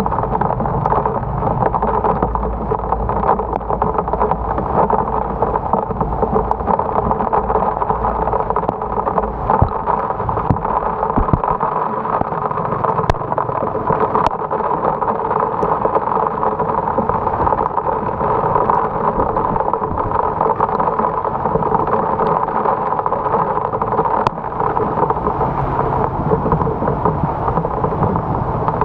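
Heavy rain falling steadily, over the low rumble of wind and road noise from a moving motorbike. The rumble fades about twelve seconds in and returns near the end, and occasional sharp ticks cut through.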